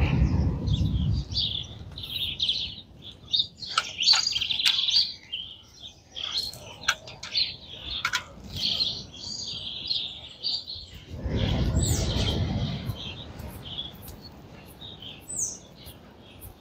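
Birds chirping and calling in many short, high notes. A low rumble swells twice, at the start and again about eleven seconds in.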